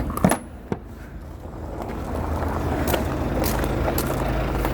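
Vehicle engine and road noise, a steady low hum that swells over about a second and then holds steady, after a couple of short clicks at the start.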